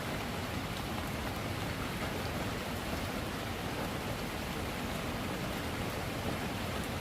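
Steady heavy rainfall, an even hiss with faint scattered drop ticks.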